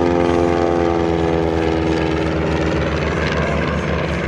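A First World War-type propeller aircraft's piston engine flying past, its note dropping in pitch as it goes by, over a steady low beat from the engine and propeller.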